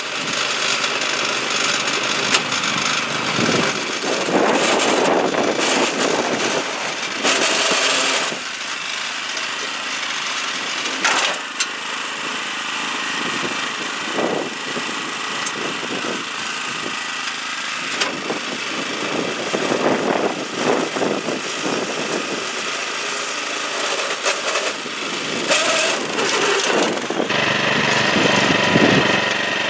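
Small petrol engine of a homemade mini dumper truck running and changing as it is driven, with rattles and a few sharp knocks.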